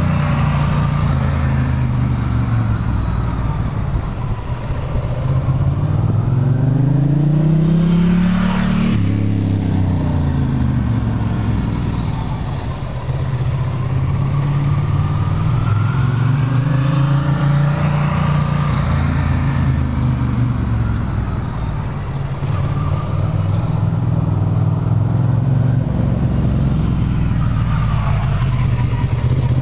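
Ducati ST3's V-twin engine running through a Termignoni slip-on exhaust, its pitch climbing and falling with the revs several times; the steepest climb peaks about nine seconds in and then drops away sharply.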